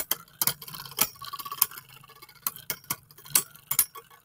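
Spinning Beyblade Burst tops clashing in a stadium: sharp, irregular plastic clacks, a few each second, over a faint spinning hum.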